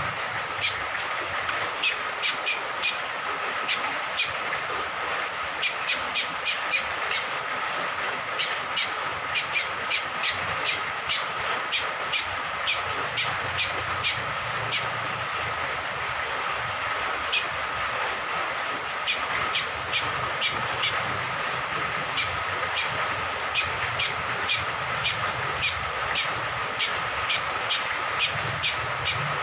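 Cucak kombok (kecial kombok) honeyeater calling in quick runs of short, sharp notes over a steady hiss of falling rain, with a brief lull around the middle.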